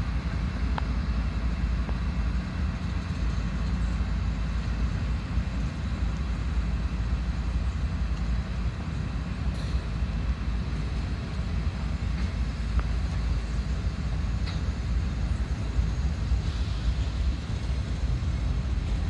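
Freight train of tank cars rolling past: a steady rumble of steel wheels on the rails, with a few faint clicks.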